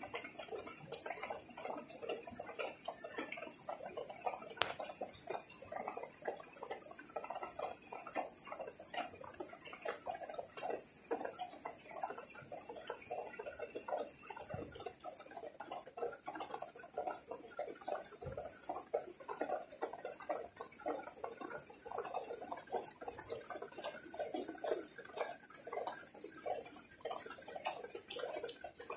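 Rain falling and dripping on leaves: a continuous, irregular patter of drops. A steady high hiss stops suddenly about halfway through.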